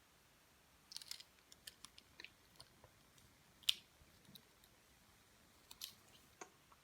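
Faint, scattered clicks and taps of small plastic LEGO pieces being handled and pressed together, with a sharper single click about three and a half seconds in.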